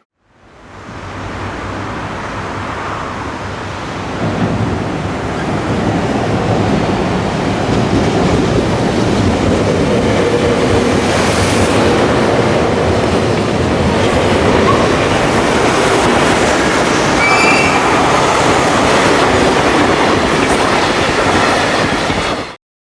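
High-speed freight train passing at speed: a steady rumble and clatter of wagon wheels over the rails, growing louder about four seconds in, with a few brief high wheel squeals partway through. It cuts off abruptly.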